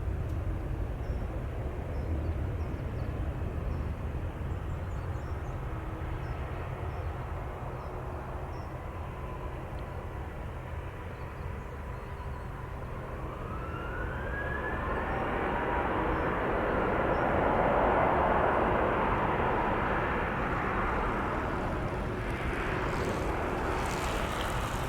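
Boeing 777-300ER's GE90 turbofan engines on final approach: a steady jet rumble that swells as the airliner nears, with a whine gliding up in pitch about halfway through, loudest a few seconds later and then easing off.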